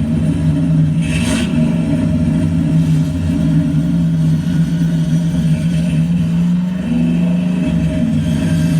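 A machine's motor running with a steady, loud low hum.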